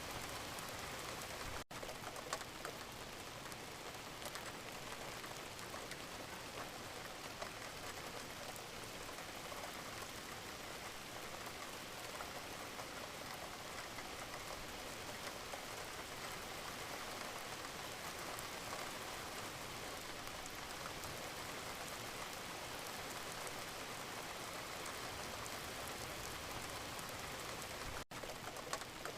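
Wood fire crackling in a fireplace: a steady hiss dotted with many small pops and crackles. The sound drops out very briefly twice, once near the start and once near the end.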